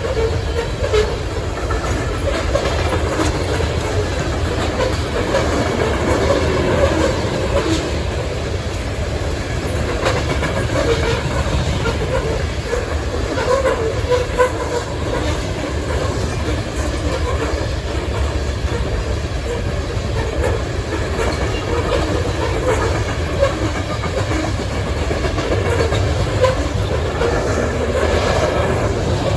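Loaded coal cars of a freight train rolling steadily past, steel wheels clicking over the rail joints over a continuous rumble.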